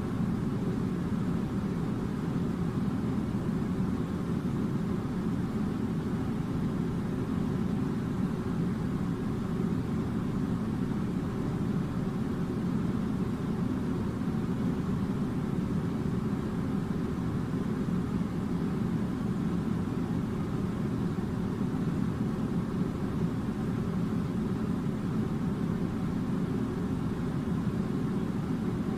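A steady low drone of a running machine, unchanging throughout, with most of its weight in the low-mid range.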